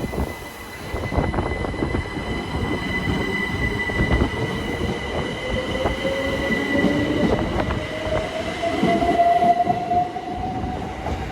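Southeastern Class 375 Electrostar electric multiple unit pulling away from the platform. Its traction motor whine rises slowly and steadily in pitch as it gathers speed, over rumbling wheel and track noise.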